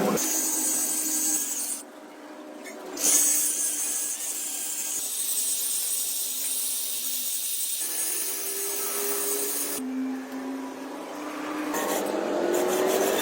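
Workshop tool noise, a steady hissing rasp on the truck's body panels, typical of sanding or grinding. It cuts out for about a second near the start and again briefly later on.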